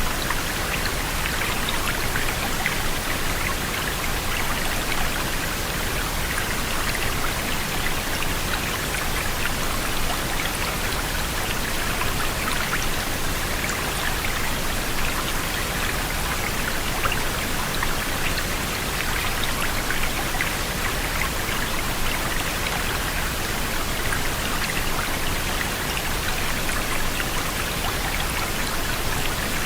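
Rain falling steadily: a dense patter of small drops over an even hiss.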